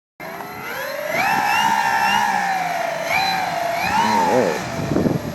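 Twin-propeller radio-controlled model of a Mitsubishi MU-2 in flight, its motors and propellers making a whine. The whine rises in pitch over the first second, then wavers up and down as the plane passes.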